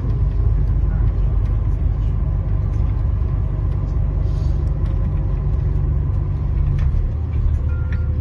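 Tour bus rumbling along the road, heard from inside the passenger cabin: a steady deep drone of engine and road noise, with a few faint clicks and rattles.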